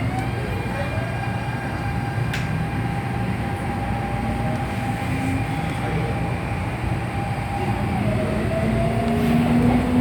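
MTR Tung Chung Line CAF electric train running, heard on board: a steady rumble from the wheels and rails under a motor whine. The whine climbs at the start, holds level, then shifts pitch near the end as a lower tone rises.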